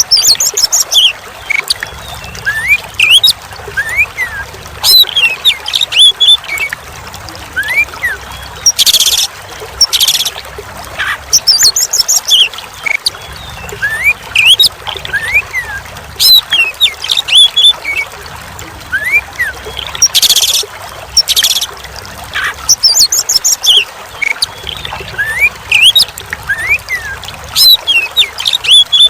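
Oriental magpie-robin (kacer) singing a rapid, varied song of short whistles, chirps and glides, broken by a few short harsh rasping bursts, over a steady faint trickle of running water.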